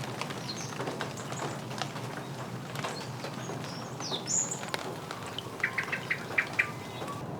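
Birds chirping and calling over a steady outdoor background hiss. Late on comes a quick run of about half a dozen short repeated calls.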